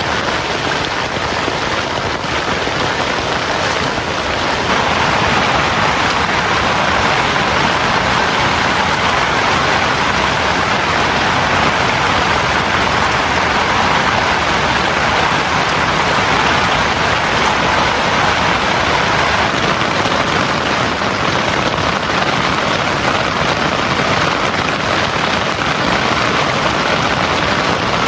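Heavy rain falling steadily, a little louder from about five seconds in.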